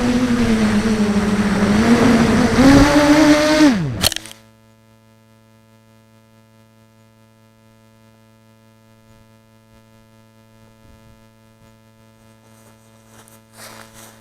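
Brushless motors of a 250-size FPV mini quadcopter running with the sound of a shelled-out bearing in a SunnySky 2204 motor; the pitch wavers, then the motors spin down with a quick falling whine about four seconds in. After that only a faint steady electrical hum remains, with a few clicks near the end.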